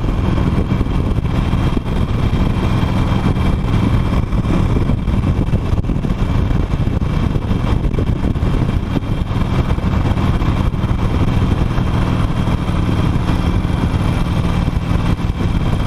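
Harley-Davidson Nightster's liquid-cooled Revolution Max 975T V-twin running steadily while being ridden.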